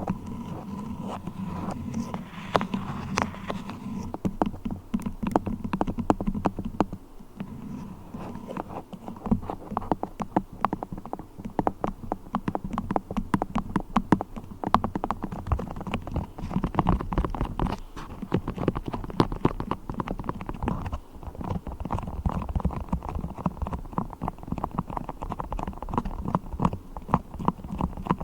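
Beeswax handled close to the microphone: a dense run of fine sticky crackles and clicks, busier from about a third of the way in.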